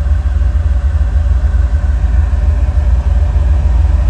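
LS V8 engine of a race-built Jeep idling, a steady low rumble.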